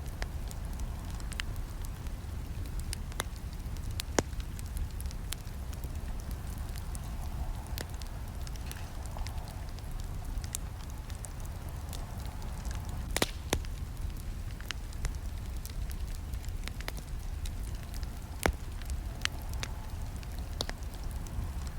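Wood campfire crackling, with irregular sharp pops and snaps over a steady low rumble; the loudest snaps come about 4, 13 and 18 seconds in.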